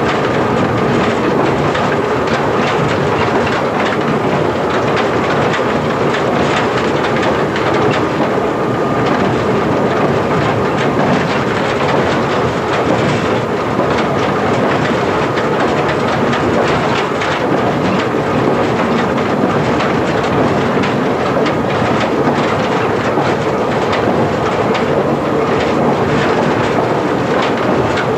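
Former London Underground 1927 Standard stock electric train running at speed, heard from the cab: a steady rumble with the wheels clicking irregularly over the rail joints, and a faint steady whine through the first half.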